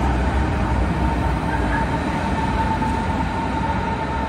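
Berlin S-Bahn electric train running along the platform: a steady high motor whine over the low rumble of the wheels.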